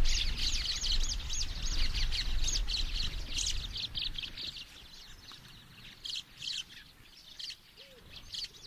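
Birds chirping in quick repeated arching notes, dense at first and thinning out about halfway, over a low rumble that fades away about four seconds in.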